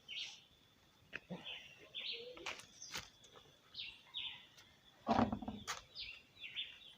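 Birds chirping over and over in short, falling notes. A brief thump or rustle about five seconds in is the loudest sound.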